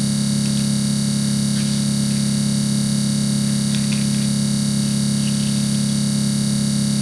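A steady, unchanging buzz: a strong low hum with a hiss over it, with a few faint ticks.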